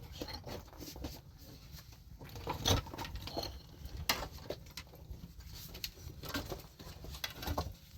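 Irregular light knocks, taps and rustling of small objects being handled, with a couple of louder knocks a few seconds in.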